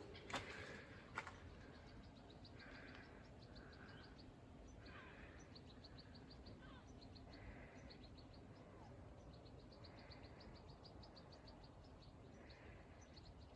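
Faint birdsong: runs of high, rapid ticking notes in a quick trill, repeated several times with softer calls between them. Two sharp clicks come near the start.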